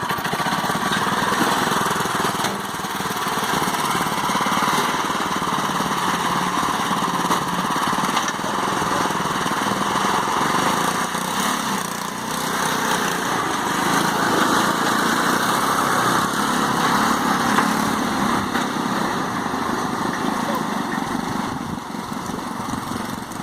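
Engine of a homemade tractor built from car and motorcycle parts, running continuously with a steady rapid beat, swelling and easing a little in loudness.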